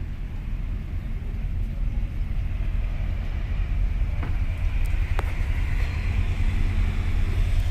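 A deep, steady rumble in the sky, slowly growing louder, with a faint higher hum building over it: one of the unexplained "strange sky sounds" whose source is unknown.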